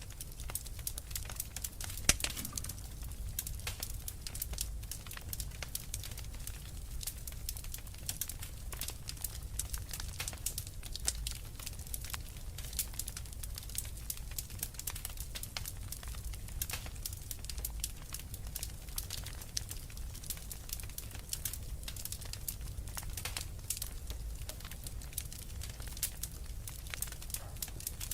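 Wood fire crackling steadily: a dense run of small irregular pops and snaps over a low rumble, with one sharper pop about two seconds in.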